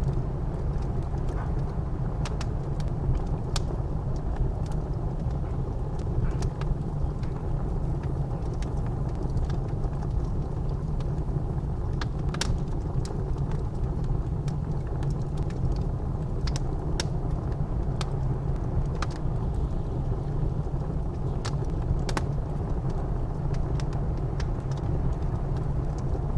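Blizzard wind blowing in a steady low rumble, with a wood fire in a fireplace crackling: scattered sharp pops at irregular intervals over it.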